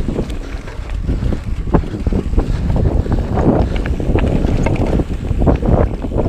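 Mountain bike riding over a rough, rocky trail: wind buffets the microphone over a constant low rumble, with frequent short knocks and rattles from the bike.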